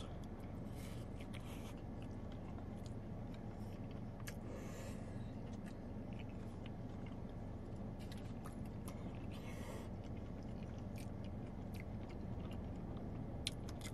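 A man chewing a mouthful of food with his mouth closed: soft, wet mouth sounds and a few faint clicks over a steady low hum.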